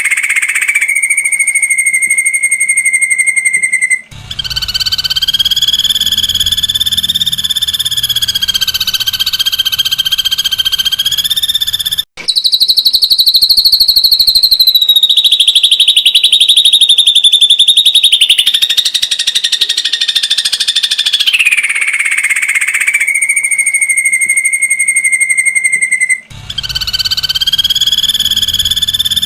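Ashy drongo giving long, rapid-fire trills ('tembakan'), each a fast run of notes held at a fairly steady pitch. The trills are broken by abrupt short breaks about 4, 12 and 26 seconds in.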